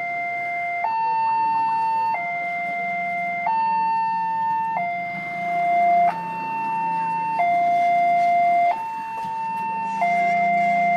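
Railway level-crossing warning alarm sounding a two-tone signal, switching back and forth between a higher and a lower tone about every 1.3 seconds, warning of an approaching train. A low hum rises under it at times.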